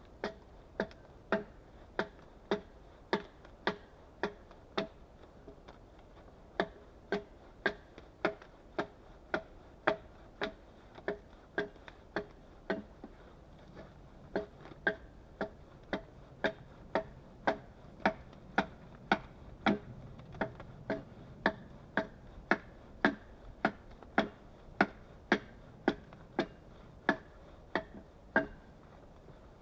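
A hand tool striking wood in an even, steady rhythm, a little under two knocks a second, each with a short ringing clack, with a couple of brief pauses.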